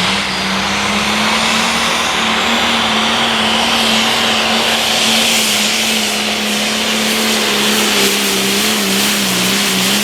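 Turbocharged diesel engine of a 4.1 limited pro stock pulling tractor running flat out during a pull. Its note holds nearly level, climbing slightly and wavering near the end.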